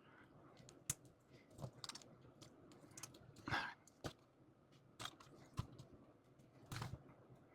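Plastic model-kit parts being handled and pressed together: scattered sharp clicks and snaps, about one every half second to a second, with a brief scratchy rustle of plastic about halfway through.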